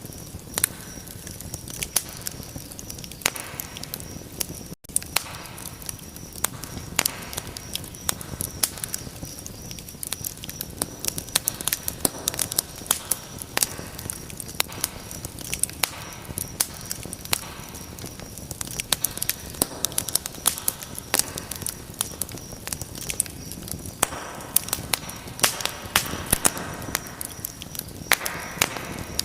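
Wood fire in a fireplace crackling, with many irregular sharp pops and snaps over a soft hiss. The sound briefly cuts out about five seconds in.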